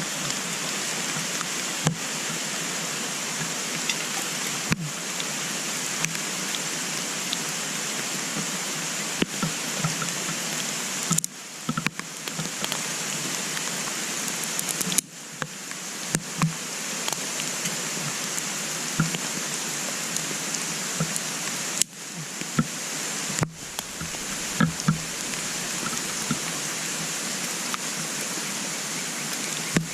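Wood fire burning in a compact wood-burning stove: a steady hiss with scattered sharp crackles and pops.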